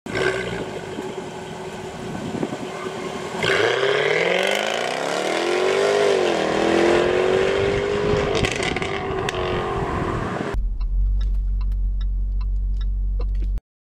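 Jaguar F-Type R's supercharged 5.0-litre V8 running, then revving hard as the car pulls away, its pitch climbing, dipping once and holding. About ten and a half seconds in it gives way to a deep cabin-side rumble with a run of sharp crackles.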